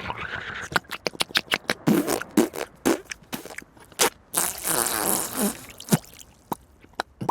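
A fast, irregular run of sharp clicks and knocks, broken by short sputtering bursts and a longer sputter near the middle: cartoon sound effects of hand-worked kitchen clatter.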